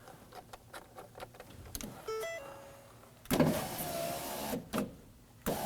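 Power window regulator motor in a Ford Focus front door, running with the door panel removed as the glass is moved to line up the regulator's glass clamps. It whines for about a second and a half and starts again near the end, after a few light clicks and a short electronic chime.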